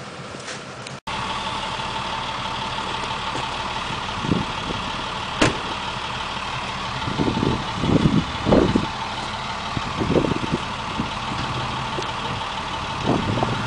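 A vehicle engine idling steadily after a sudden cut about a second in, with a few short low bursts in the middle and near the end.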